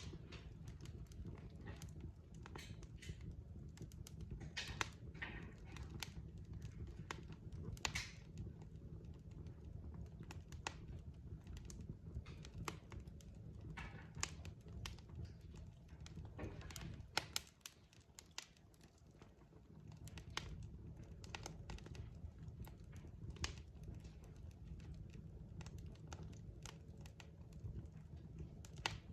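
Wood fire crackling in a fireplace: irregular sharp pops and snaps over a low steady rumble of burning logs. The rumble drops away for a couple of seconds a little past the middle.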